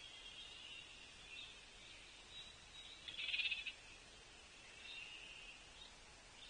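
Frogs calling: a steady high-pitched chorus with one short, rapid trill about three seconds in.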